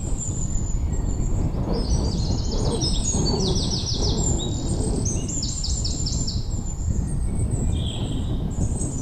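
Small birds singing and chirping, with quick runs of repeated high notes, over a steady low background rumble.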